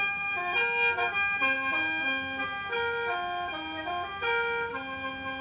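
Khaen, the bamboo free-reed mouth organ of Isan and Laos, playing a melody over held drone notes.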